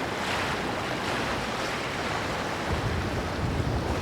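Surf washing on the shore under a strong, gusty wind. From nearly three seconds in, gusts buffet the microphone with a low rumble.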